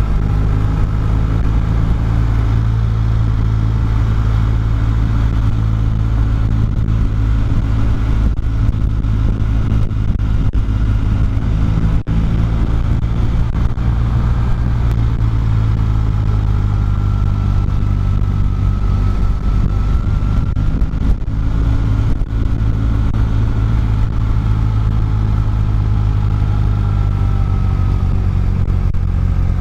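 Motorcycle engine running steadily at an even, barely changing speed, with a low, continuous drone.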